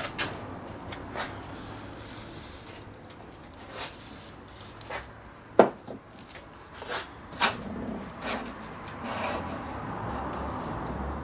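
Rubbing and scraping on metal lathe parts during rust removal, broken by scattered clicks and knocks, with one sharp knock a little past halfway and a longer stretch of rubbing near the end.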